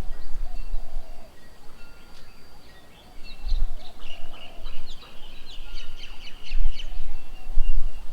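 Several birds chirping and calling in short, high notes, thickening into dense chattering from about three and a half to seven seconds in, over intermittent low rumbling.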